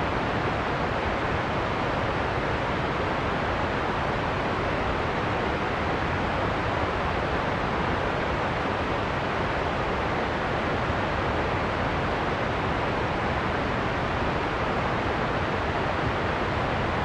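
Heavy rain and wind from a storm soundscape: an even, unbroken hiss with a strong bass end, with no separate drops, gusts or thunder.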